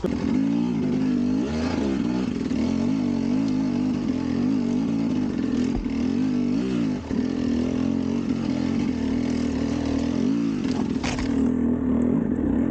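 Enduro dirt bike engine running under way, its revs rising and falling with the throttle.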